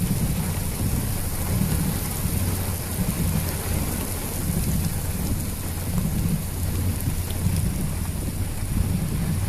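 Heavy rain falling in a steady hiss, with a constant low rumble underneath.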